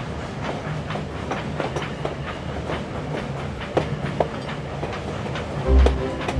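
Train running along the track, its wheels clicking irregularly over rail joints above a steady low rumble. Music comes in near the end.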